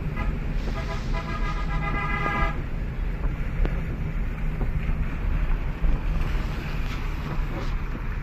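Heavy rain falling steadily, with wind rumbling on the microphone. A held, steady tone sounds over the rain for the first couple of seconds, then stops.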